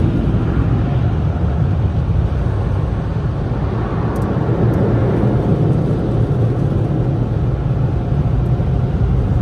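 Sonny's car wash tunnel dryers blowing air over the car, a steady, loud rush of air heard from inside the car's cabin.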